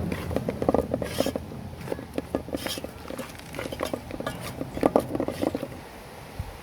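Cooking utensils clattering: short knocks and scrapes in quick runs, louder about a second in and again near five seconds, then dying away.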